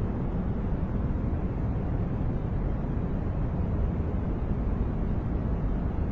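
Steady masking noise sold as white noise, a deep, even hiss with most of its weight in the bass and little treble. It holds at one level with no changes.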